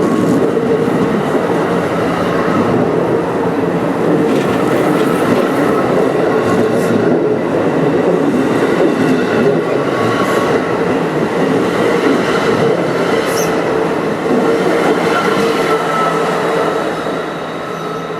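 NJ Transit commuter train running past, a loud steady rumble of wheels on rail with a few faint wheel squeals, easing off near the end.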